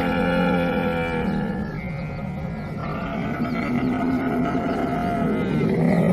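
Camel calling: low, drawn-out vocalizations. One ends about a second in, and another starts around three seconds in and grows louder near the end.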